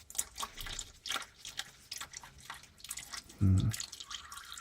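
Motor oil dripping from a loosened oil filter into a drip pan, in irregular drops. A brief vocal sound comes about three and a half seconds in.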